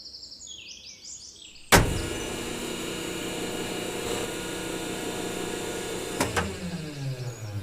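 Small electric motor switched on with a sharp click, running steadily for about four and a half seconds, then switched off with another click and winding down, its pitch falling.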